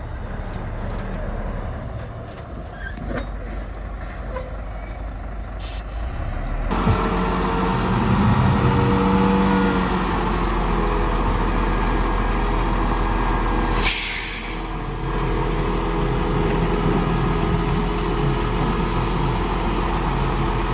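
Heavy diesel engine of a dump truck or bulldozer running, growing louder about a third of the way in, with two short hisses of released air like an air brake, the second one longer, about two-thirds through.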